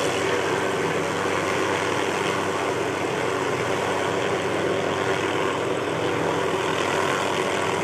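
Tree-trimming helicopter with a suspended aerial saw, its engine and rotor running steadily with no change in pitch or level.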